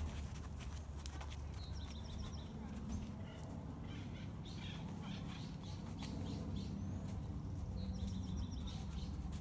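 Birds calling: a short rapid trill of repeated high notes about two seconds in and again near the end, with scattered chirps between, over a steady low background rumble. One sharp click about a second in.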